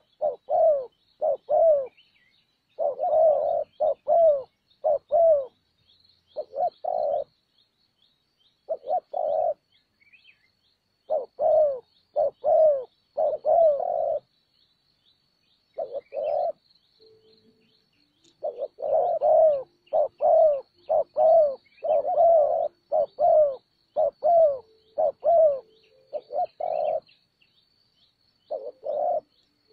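Spotted dove cooing: short low coo notes repeated in phrases of several, with pauses of a second or two between phrases.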